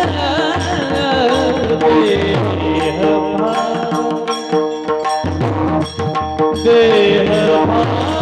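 Devotional Varkari bhajan music: a sung melody over a hand drum whose bass strokes slide down in pitch. From about three to six and a half seconds in, the melody thins and a quick run of sharp percussive strikes carries the rhythm.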